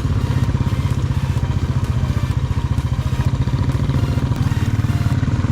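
Motorcycle engine running steadily at low speed, its exhaust beating in a rapid, even pulse.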